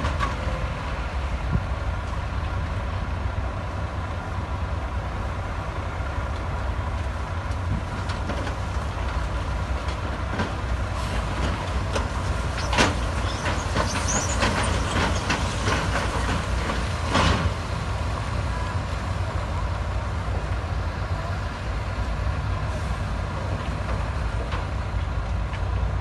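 Heavy diesel construction machinery running steadily, with a run of sharp metal clanks and high squeaks a little past halfway.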